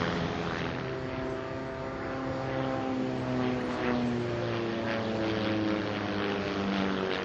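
Propeller-driven airplane flying past, its engine note falling slowly in pitch as it goes by.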